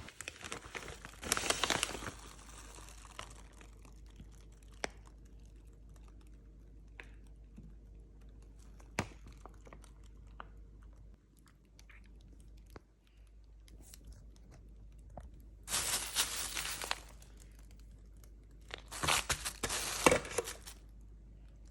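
Packaging crinkling and tearing in three bursts, with light clicks and taps between them.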